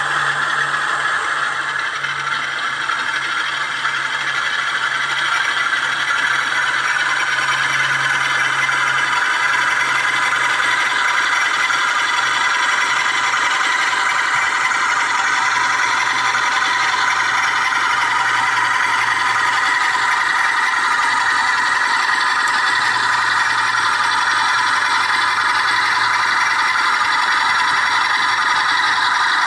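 Sound-fitted Bachmann Class 47 model diesel locomotive running, its decoder playing a steady diesel engine sound through a small speaker, with the model's running noise on the track.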